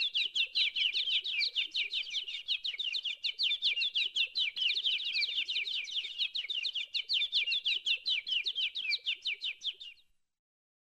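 A small bird chirping in a fast, unbroken series of short falling chirps, several a second, which cuts off abruptly about ten seconds in.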